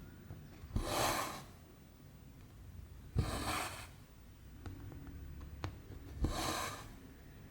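Needle and cotton thread pulled through cross-stitch canvas three times: each stroke a sharp click as the needle pierces the cloth, then a short rasping swish as the thread draws through.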